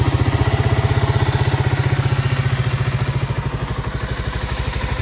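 1987 Kawasaki KLR250's single-cylinder four-stroke engine idling with even, rapid firing pulses. It is running smoothly and sounds very nice.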